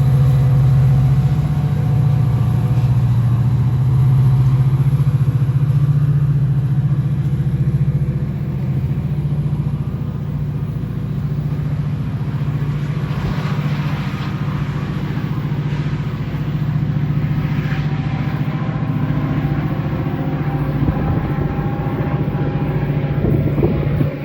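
Metra diesel locomotive running, a loud steady low drone with a few fainter steady tones above it.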